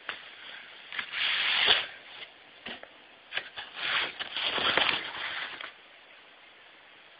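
Handling noise: rustling and scraping in two longer stretches, with a few sharp clicks between them.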